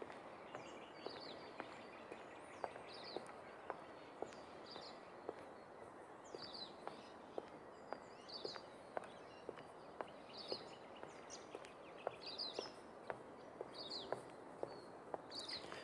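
Footsteps walking along a path, a soft step every half second or so, while a bird repeats a short high chirp about once a second.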